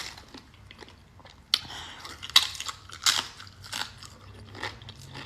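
A person biting into and chewing crunchy food close to the microphone, with several sharp crunches a second or less apart between quieter chewing.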